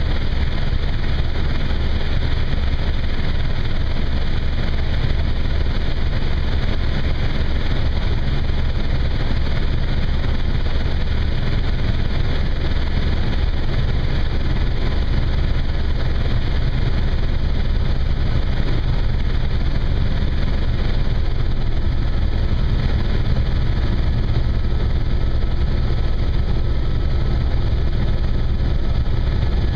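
Helicopter engine and rotor running steadily in flight: a loud, unbroken drone, strongest in the low end.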